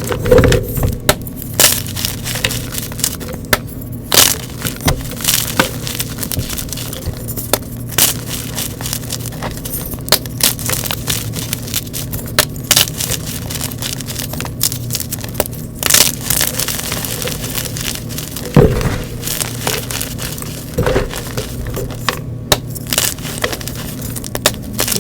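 Blocks of gym chalk being crushed and crumbled up close, with irregular sharp cracks and crunches over a steady low hum.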